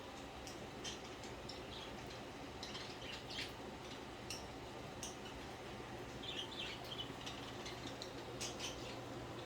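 Pet budgerigars chirping softly now and then: short high chirps and clicks scattered through, with a small run of chirps about six seconds in.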